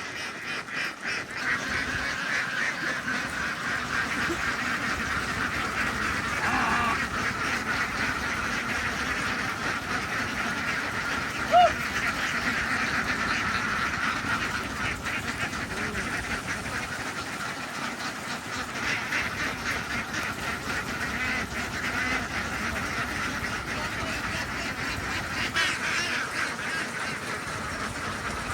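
A large flock of domestic ducks quacking together in a continuous dense chorus of overlapping calls. A brief, louder sharp sound stands out a little before the middle.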